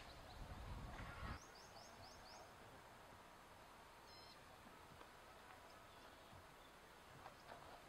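Faint outdoor quiet with a small bird chirping: a quick run of about six short, high, rising chirps a second or two in, and one brief call about four seconds in. A low rumble at the very start stops abruptly.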